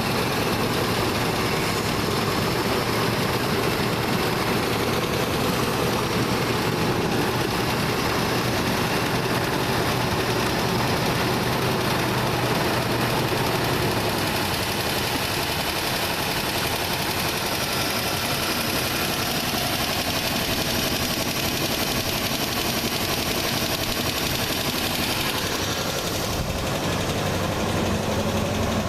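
Chevrolet 350 small-block V8 running steadily just after a hard cold start, the carbureted engine still cold and not yet warmed up. Its low note drops a little about halfway through.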